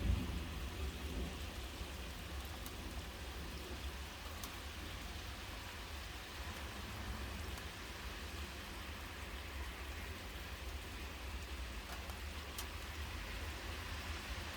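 Steady rain falling, an even hiss, with a low rumble dying away in the first second and a few single sharp drop ticks.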